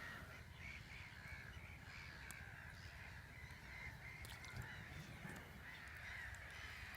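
Faint, continuous chorus of distant bird calls, many overlapping wavering cries, over a low background rumble.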